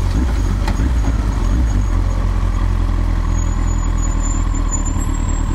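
Kawasaki Ninja ZX-14R's inline-four engine running steadily at low revs through a Yoshimura slip-on exhaust as the motorcycle rolls slowly.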